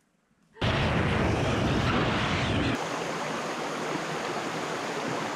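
Steady rush of a flowing creek, starting suddenly about half a second in. For the first two seconds a heavy low rumble sits over it and then cuts off abruptly.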